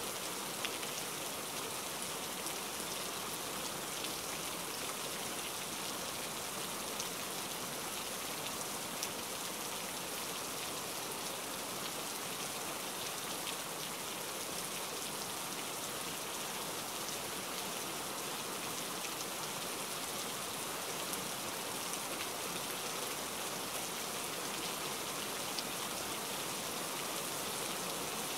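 Steady rain, an even hiss with the fine patter of single drops.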